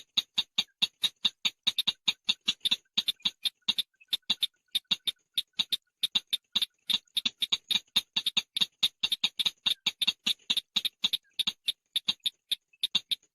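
Chàng nghịch bird call: a rapid, slightly uneven run of sharp clicking notes, about six a second.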